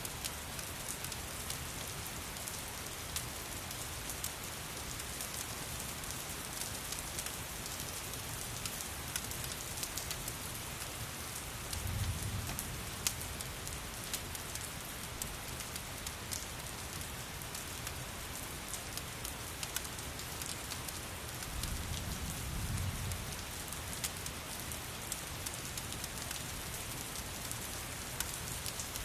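Steady rain mixed with a crackling fireplace: an even hiss with many scattered sharp crackles, and two short low rumbles about twelve and twenty-two seconds in.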